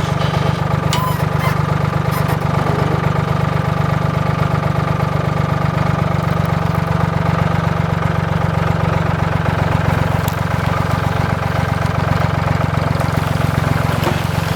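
Engine running steadily at an even speed, with a few faint clicks.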